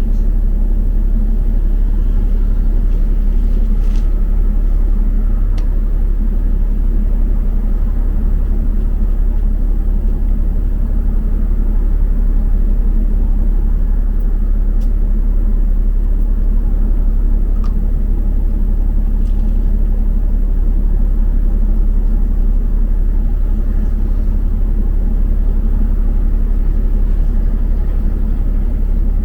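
Steady low rumble of a double-decker bus on the move, heard from inside: engine and road noise, with a few faint clicks and rattles.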